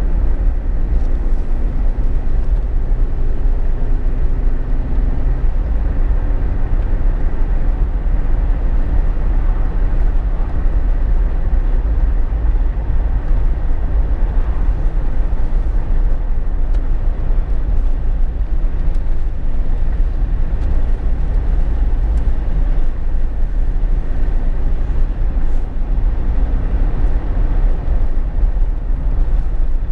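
Jeep Wrangler JK at highway speed, heard from inside the cabin: a steady, deep rumble of tyres, wind and engine, with a faint engine hum in the first few seconds.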